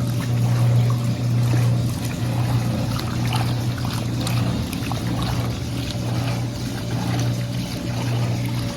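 Brastemp Linea Verona BLP24 top-loading washing machine agitating a load of clothes in water: a steady low motor hum, dipping briefly every second or so, over sloshing and splashing water.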